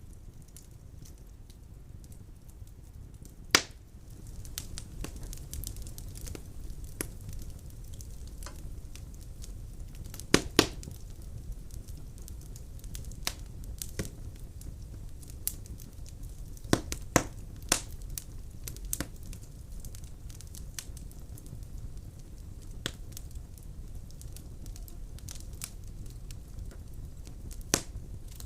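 Wood burning in a fireplace: a steady low rumble of flames with scattered crackling from the logs and a handful of sharp pops, two in quick succession about ten seconds in and one near the end.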